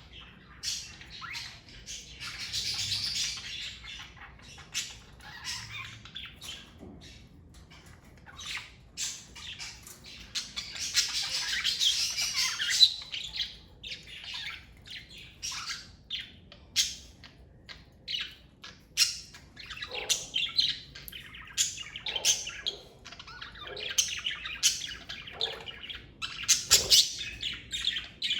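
Pet budgerigars (Australian parakeets) chirping and chattering, with many short, high calls and two louder, denser bouts of warbling chatter: one a couple of seconds in, the other about ten to thirteen seconds in.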